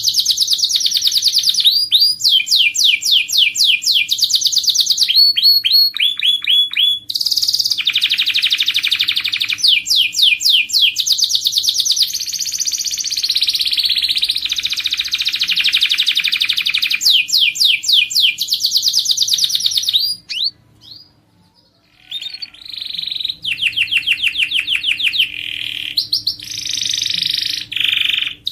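Domestic canary singing: a long, loud song of fast trills, each phrase a rapid run of repeated notes before switching to the next, with a short pause about two-thirds of the way through.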